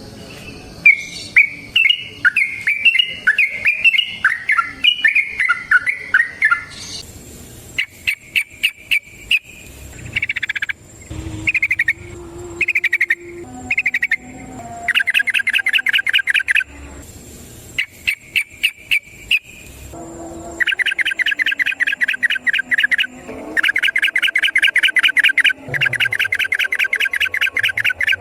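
Yellow-vented bulbul (trucukan) singing. First comes a varied, chattering phrase, then repeated bouts of fast, evenly repeated notes, the long rolling 'ropel' song, each bout lasting one to three seconds.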